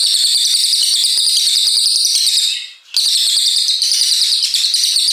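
A brown cililin songbird singing a long, rapid, high-pitched chattering song in two unbroken runs, with a brief pause just under three seconds in.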